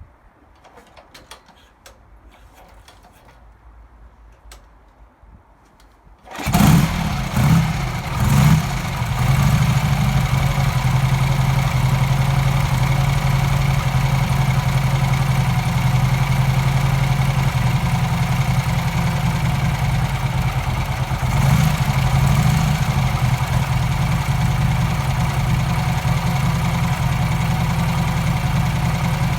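Faint clicks and handling noise, then about six seconds in a Vincent 998 cc V-twin motorcycle engine starts, is blipped three times, and settles into a steady idle. There is a short blip of the throttle about 21 seconds in.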